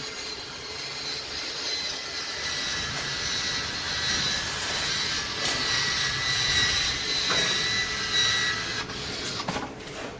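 Small electric motor of a cordless power tool running steadily with a high whine, tested for speed. It stops about nine seconds in.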